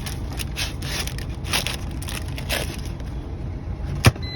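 Food and its container being handled, with short rustling, crunching noises and a sharp click about four seconds in, over a steady low engine hum.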